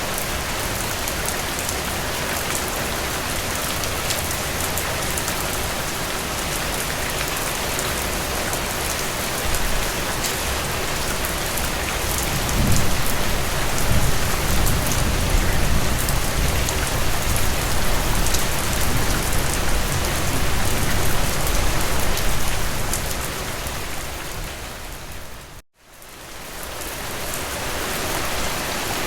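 Steady rain falling, an even hiss of drops, with a deep low rumble joining about twelve seconds in and lasting some ten seconds. Near the end the rain fades out to a moment of silence and then fades back in.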